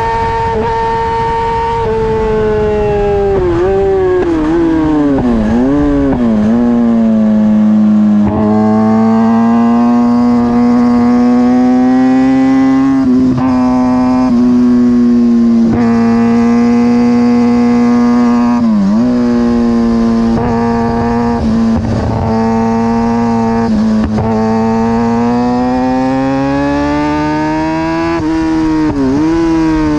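Onboard sound of a 2009 Kawasaki ZX-6R's inline-four engine at racing speed: high revs at first, then the revs fall in steps with several quick dips as the rider brakes and downshifts. The engine then holds steadier lower revs with brief dips at gear changes and climbs again near the end, with wind noise under it.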